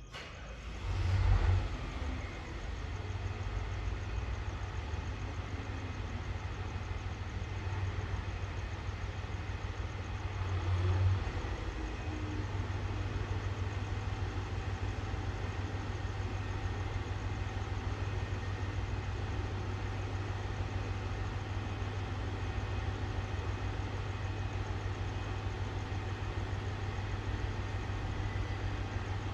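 Diesel railcar engine idling with a steady low hum; it swells louder briefly about a second in and again around eleven seconds in.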